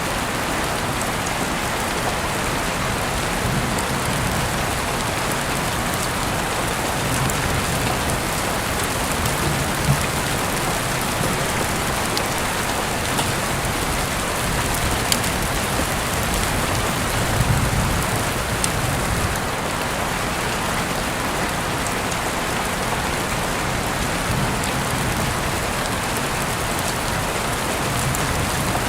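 Heavy rain falling steadily, with scattered sharper drop hits standing out from the even hiss.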